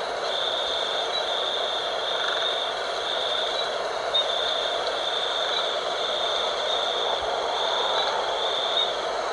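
Night insects, such as crickets or katydids, calling in a steady high-pitched chorus, broken into long pulses of about a second with short breaks, over a steady hiss.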